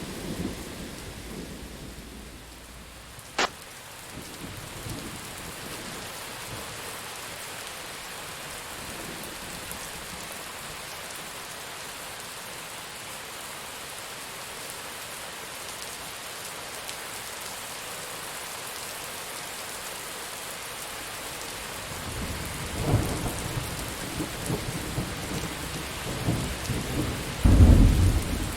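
Steady rain falling, with a thunder rumble dying away at the start and a single sharp crack about three seconds in. Thunder rumbles return in the last several seconds, loudest near the end.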